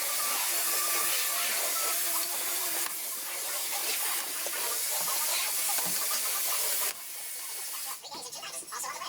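A steady, loud hiss with faint tones beneath it. Its level drops abruptly about three seconds in and again about seven seconds in. Music begins near the end.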